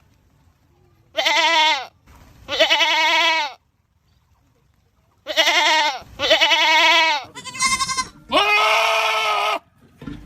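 Goats screaming: a string of about six loud, drawn-out bleats, each about a second long, most rising and then falling in pitch, with a longer, flatter call near the end.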